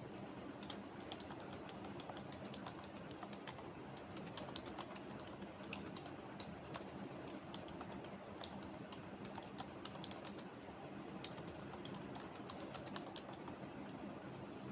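Computer keyboard typing: a run of quick, irregular keystroke clicks with short pauses, over a steady low background hum.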